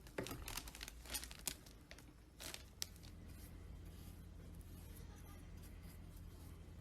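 Short scrapes and clicks of small hand work during the first three seconds, then a steady low hum.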